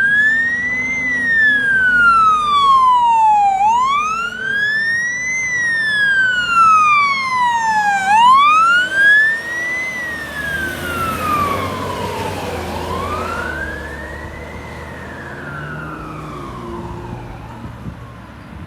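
Fire engine siren on a slow wail, rising and falling about every four and a half seconds. A rush of engine and road noise swells in the middle as the engine goes by, and the wail then fades as it moves away.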